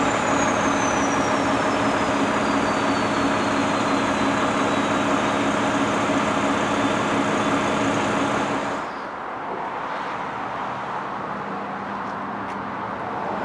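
Heavy diesel truck engine, the Mack MP7, running steadily, with a high whine that falls slowly in pitch over the first few seconds. The sound drops to a quieter, steady run about nine seconds in.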